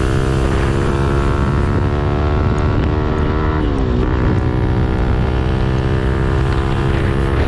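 CFMoto NK 250's single-cylinder engine running through an Orion full-system aftermarket exhaust while riding at steady revs, with the pitch dropping and recovering about halfway through, like a gear change.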